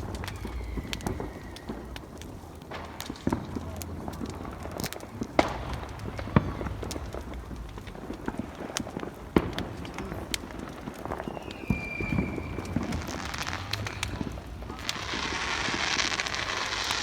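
Fireworks going off: scattered bangs and pops at irregular intervals, then a dense crackling hiss that swells from about three-quarters of the way through and keeps going.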